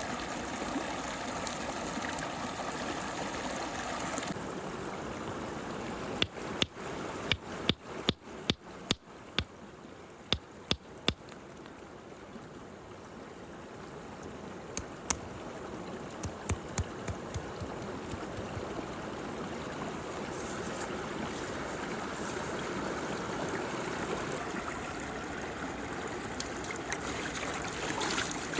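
Water swirling and gurgling steadily down a whirlpool hole in mud. Stone pieces drop into it as a quick run of about eleven sharp impacts from about 6 to 11 seconds in, then four more around 15 to 17 seconds in.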